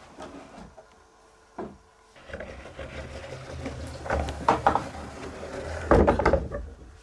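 Knocks and rattling clatter, like a cupboard or heavy door being handled: one knock about a second and a half in, then a run of sharp clacks over a low rumble, loudest near the end.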